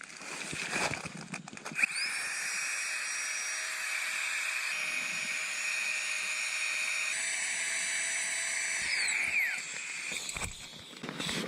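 Flextail Tiny Pump, a small battery air pump, whining steadily as it inflates a sleeping mat. It spins up about two seconds in and winds down with a falling pitch near the end, with some rustling of handling before and after.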